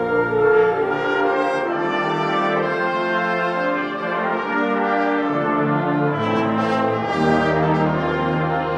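Community concert band playing a slow, sustained passage, the brass to the fore, with full chords held and shifting every second or two over moving bass notes.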